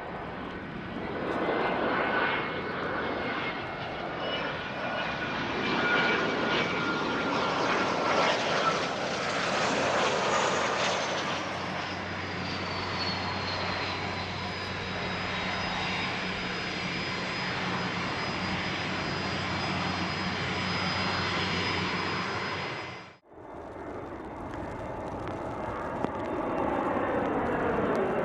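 Dassault Falcon 2000LX business jet landing, its twin turbofans running with a high whine that glides down in pitch partway through. The sound breaks off abruptly near the end, and a quieter jet sound with falling pitch follows.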